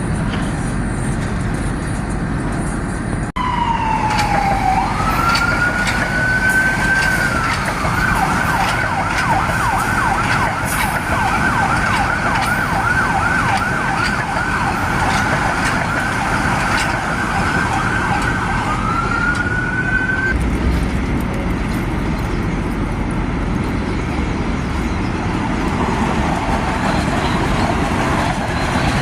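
An emergency vehicle's siren starts a few seconds in. It dips, rises into a wail, then switches to a rapid yelp for about ten seconds, rises once more and stops. Steady street traffic noise runs underneath.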